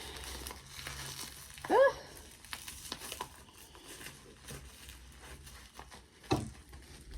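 Plastic packaging rustling and crinkling as it is cut open with a knife, with a short vocal sound about two seconds in and a single sharp knock near the end.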